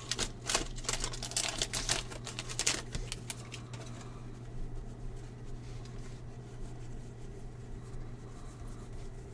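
Trading cards being flipped through by hand, a quick run of light clicks and snaps over the first few seconds, then softer card handling over a steady low hum.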